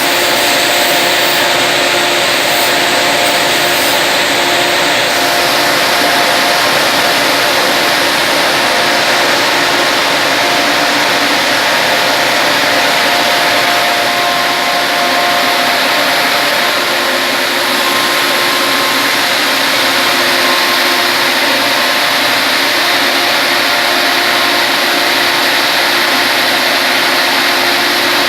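Peanut grain dryer running, its fan and gas burner making a steady, loud rushing noise with a low steady hum through it.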